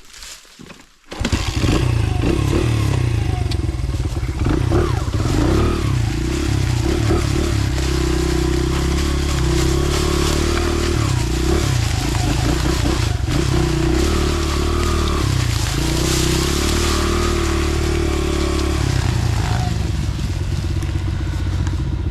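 Small dirt bike engine running under load, revving up and down as the rider climbs a hill. It comes in suddenly about a second in.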